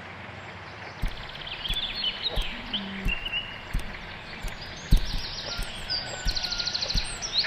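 Birds chirping in quick repeated trills, with scattered soft taps and clicks over a steady background hiss.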